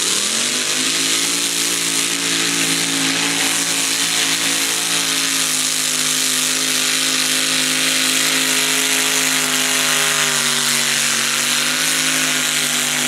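Mini modified pulling tractor's engine at full throttle under load. It revs up sharply in the first half second, then holds a loud, steady, high-revving note.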